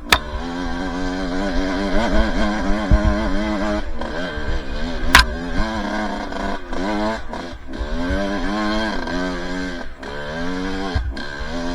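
Two-stroke dirt bike engine revving up and down while riding, its pitch rising and falling again and again, with a sharp knock at the start and another about five seconds in.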